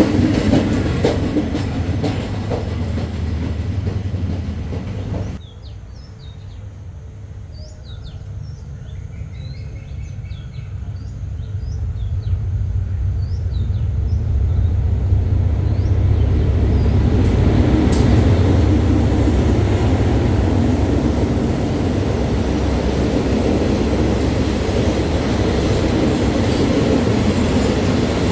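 A train running loudly, cut off suddenly about five seconds in. Then a quieter stretch with birds chirping, while a train draws nearer, growing louder over several seconds until it runs past with a steady, loud rumble of wheels on the rails.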